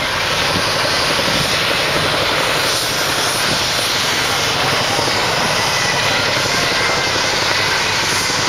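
Boeing Chinook tandem-rotor helicopter in flight: a loud, steady rush of rotor and turbine noise with a fast fine chop in it.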